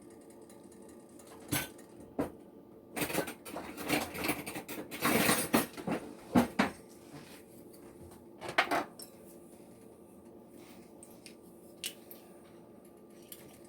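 Kitchen utensils and dishes clinking and knocking: a few single clicks, then a dense run of clatter a few seconds in and another short one past the middle, over a faint steady hum.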